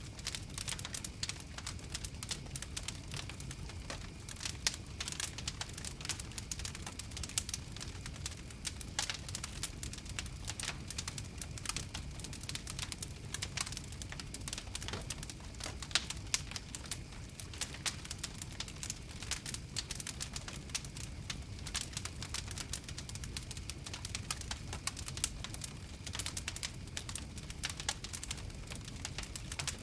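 Fire crackling: a dense, irregular run of sharp pops and snaps over a steady low rumble of the flames.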